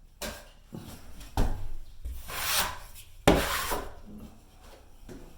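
Drywall knife scraping through joint compound in a few separate strokes, the two longest and loudest about halfway through.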